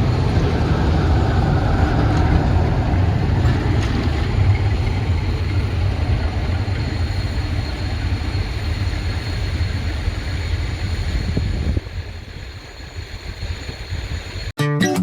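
A train moving through a station, a steady heavy rumble that drops away abruptly about twelve seconds in, leaving quieter background noise. Guitar music starts near the end.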